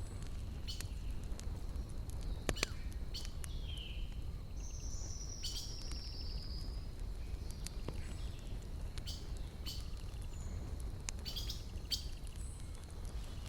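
Wood fire crackling, with sharp pops scattered every second or so over a low steady rumble. Small birds call now and then, one with a long, slightly falling trill about five seconds in.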